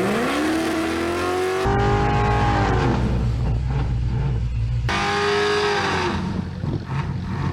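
Drag race engines at full throttle: one engine's note climbs steeply as the car launches, then holds high. The sound changes abruptly twice, and each time an engine's note later falls as it lets off.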